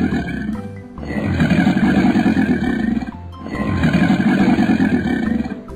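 Cartoon crocodile growl sound effect, repeated in three long rough growls of about two seconds each, over children's background music.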